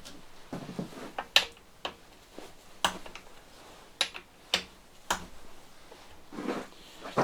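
Scattered sharp clicks and taps of hard objects being handled, about eight over several seconds, irregularly spaced.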